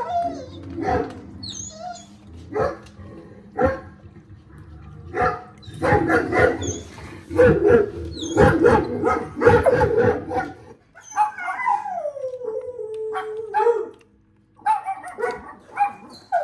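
A pet dog barking and yipping in scattered bursts, then in a dense run of barks. It gives one long howl that slides down in pitch and holds, then breaks into barks again near the end.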